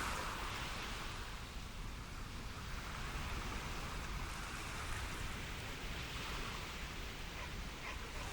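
Ocean surf: a steady rush of waves washing in, swelling at the start and building again near the end.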